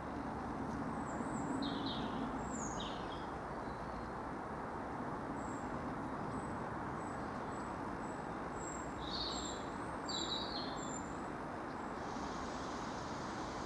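Distant train approaching along the line: a steady low rumble, with a faint hiss coming in near the end. Small birds chirp a few times over it.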